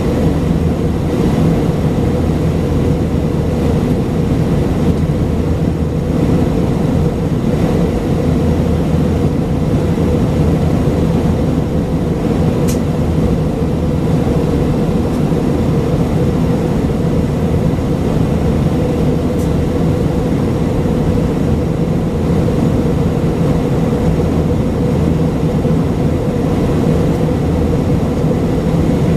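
Steady drone of an Airbus A319-132's IAE V2500 turbofan engines heard inside the passenger cabin, with a constant low hum.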